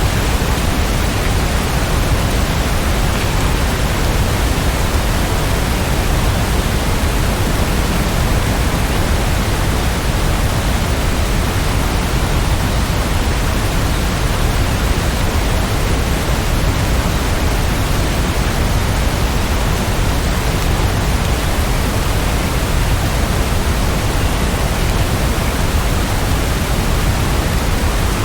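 Steady heavy rain: a dense, even hiss with no single drops or gusts standing out.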